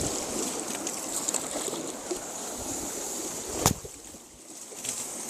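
Small boat moving through shallow water: a steady wash of water and hull noise, broken by one sharp knock a little past halfway, after which it turns quieter.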